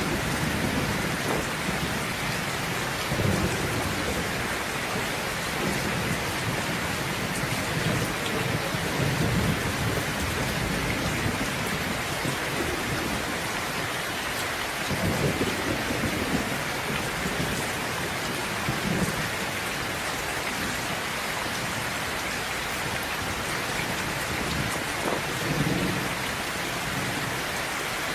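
Steady heavy rain falling, with low rolls of thunder rumbling again and again through it, the strongest about fifteen seconds in.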